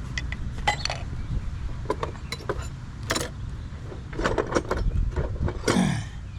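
Metal tools and parts clinking and knocking in irregular sharp taps, busiest toward the end, with a short scrape that drops in pitch just before the end.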